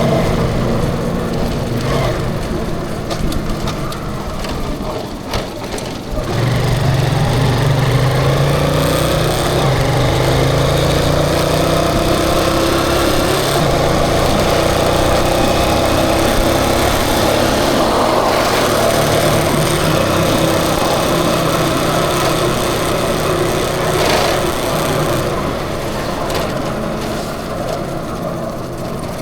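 The engine of the vehicle being driven runs on the move, with a small engine's buzz. Its pitch rises and falls with the throttle, easing off about five seconds in and picking up again a second later, over steady wind and road rush.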